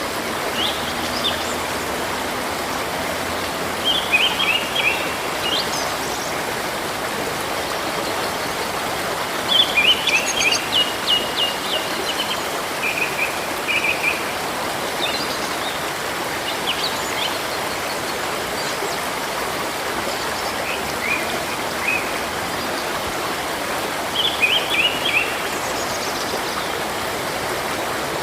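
Steady rush of flowing river water, with small birds chirping in short bursts every few seconds, the busiest stretch about a third of the way in.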